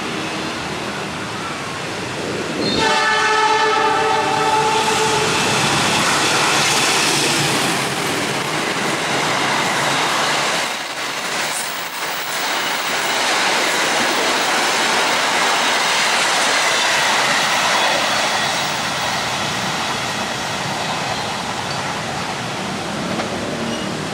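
Diesel-hauled passenger train sounding its horn for about two seconds, a few seconds in, then passing at speed: a loud rush of wheels and carriages with clickety-clack over the rail joints, easing off near the end.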